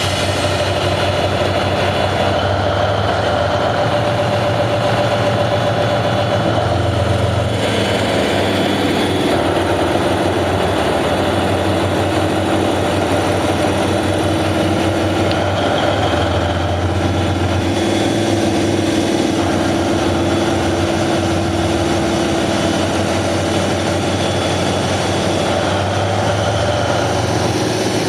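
Diesel-electric engine of a JR Kyushu DF200-7000 locomotive running with a low, steady hum, its note shifting a few times.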